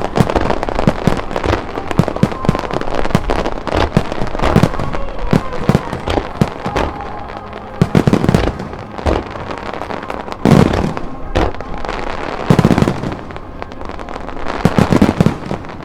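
Aerial fireworks shells bursting in quick succession, with constant popping and crackling and several heavy booms in the second half.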